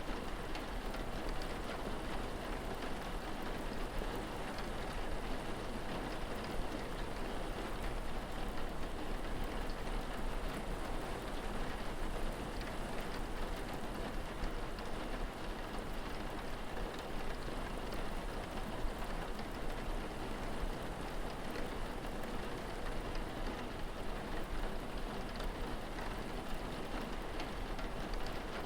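Steady rain falling, an even hiss with no breaks, over a constant low rumble.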